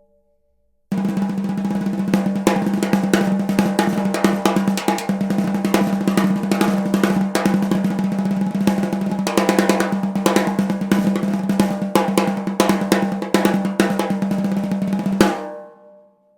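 Unmuffled London plane wood snare drum (Zebra Drums Red Plane, Remo Ambassador coated batter head) played as a sustained, even roll, with a clear ring around one pitch. The roll starts about a second in, holds for roughly fourteen seconds, then stops and the drum rings out.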